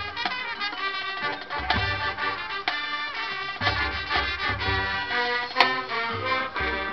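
High school marching band playing its competition show: brass melody over percussion, with a sharp hit about five and a half seconds in.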